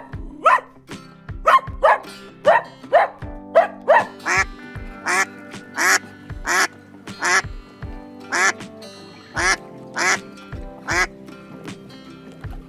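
Duck quacking repeatedly, a string of short quacks about one or two a second that stops near the end, over background music.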